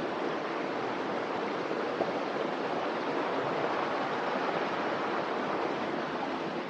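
Creek water rushing and splashing over rocks, a steady rush of running water.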